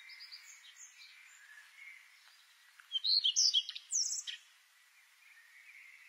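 Birds chirping: faint calls, then a burst of quick, high chirps about three seconds in that stops about a second and a half later, over a light steady hiss.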